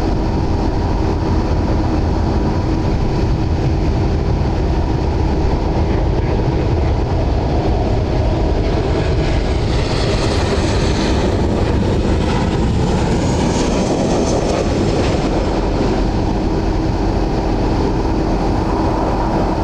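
Jet airliner engines, a steady loud rumble with a high hiss and whine that swells about halfway through and then falls away.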